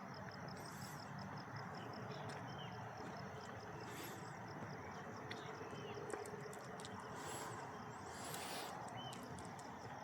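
Outdoor morning ambience: a steady low background rush with small birds chirping briefly now and then, and a fast, regular high-pitched pulsing call that stops about four seconds in.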